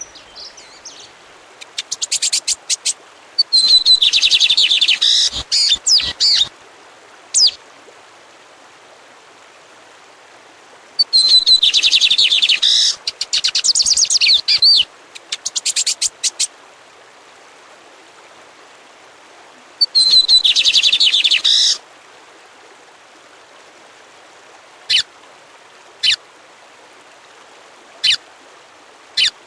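A songbird singing three long phrases of fast, high, rapidly repeated notes several seconds apart, followed by a few short single notes near the end.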